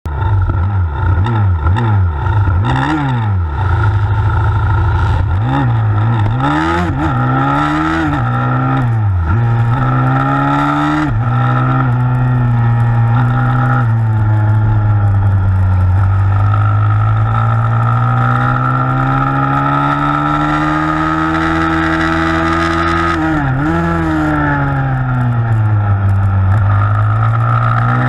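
A 160 cc single-cylinder four-stroke pit bike engine racing. It revs up and down in quick sweeps for the first ten seconds or so, then runs hard at high revs with slow rises and falls, dropping sharply and picking up again once around two-thirds of the way through.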